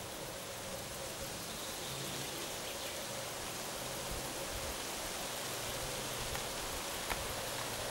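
Distant EU07 electric locomotive and its train approaching, heard only faintly as a low hum under a steady, even hiss.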